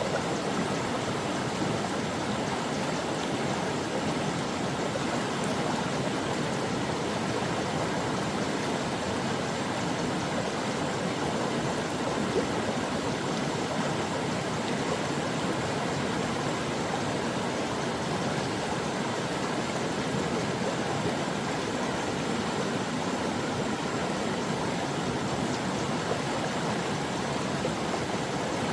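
Stream water flowing and babbling over rocks, a steady even rush with small splashes.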